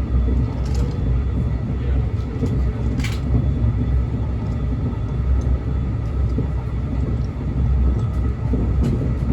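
Train rumbling with a steady low rumble, and a short sharp click about three seconds in.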